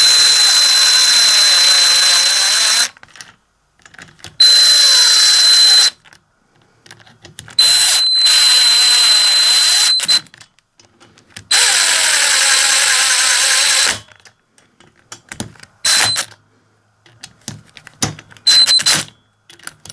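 Cordless electric driver spinning long T27 Torx bolts into an engine crankcase: four runs of a few seconds each with a steady high whine, then two brief blips near the end.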